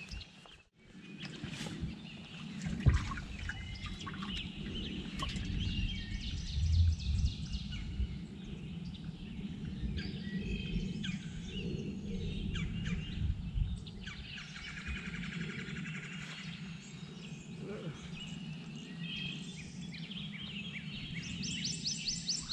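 Songbirds singing and calling, with varied chirps and a rapid trill near the end. A single sharp knock sounds about three seconds in.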